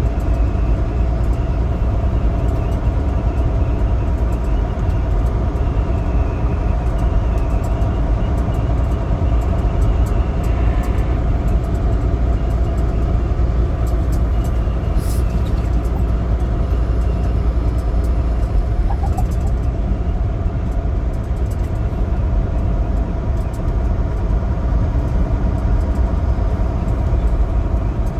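Semi truck under way: a steady diesel engine drone with tire and road noise.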